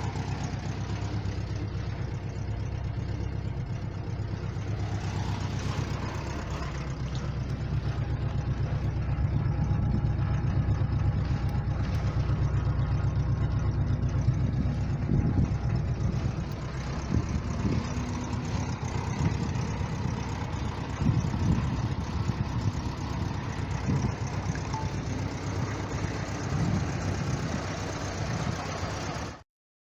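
1987 Subaru GL's carbureted EA82 1.8-litre flat-four engine idling steadily. It stops abruptly near the end.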